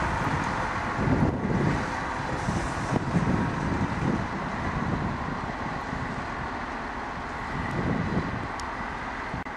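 A TER AGC regional railcar running past across a rail yard, a steady rumble of the train, with wind gusting on the microphone in low thumps about a second in, at three seconds and near the end.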